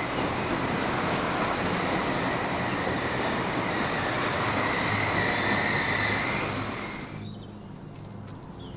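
Train running on the rails, a steady rushing rumble with a high, wavering squeal of wheels on track, dying away about seven seconds in.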